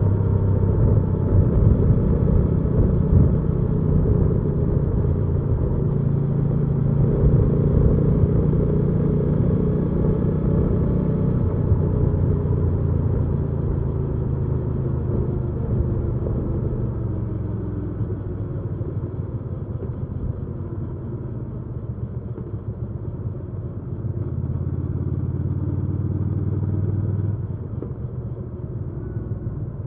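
Hyosung GV300S Aquila 300 motorcycle's V-twin engine running while riding. The engine note holds steady at first, then falls as the throttle is eased off after about twelve seconds. It picks up again for a few seconds near the end before dropping once more.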